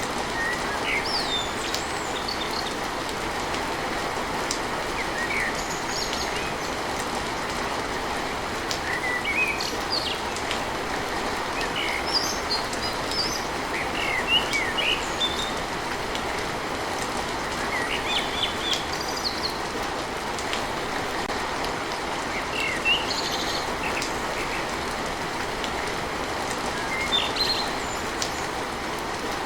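Steady rain pattering on a tin roof as an even hiss, with birds chirping now and then above it.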